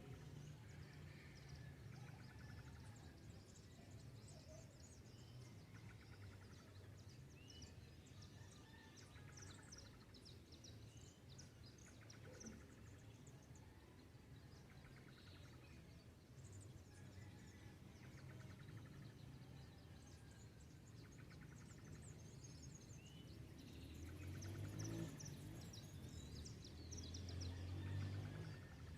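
Faint dawn birdsong: many birds chirping and trilling together over a low background rumble that swells near the end.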